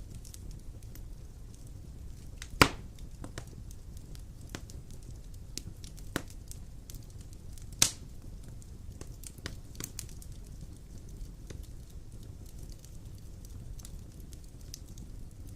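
Wood fire of large logs burning in a fireplace: a low steady rumble of flames with scattered crackles and two loud pops, a few seconds in and about halfway through.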